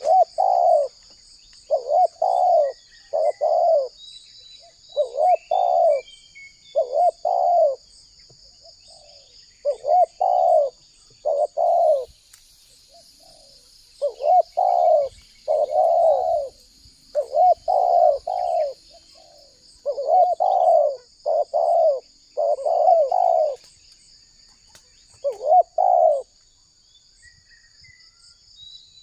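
Spotted dove cooing its song, repeated phrases of two or three coos separated by short pauses. A steady high-pitched buzz runs underneath, with a few faint chirps from small birds.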